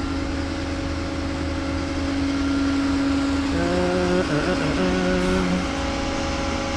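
A vehicle engine idles with a steady low rumble and hum. A second, higher machine tone joins for about two seconds in the middle, then drops out.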